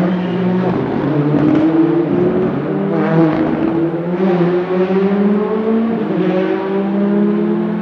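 Rally car engine under acceleration, its pitch climbing steadily with a few brief dips along the way.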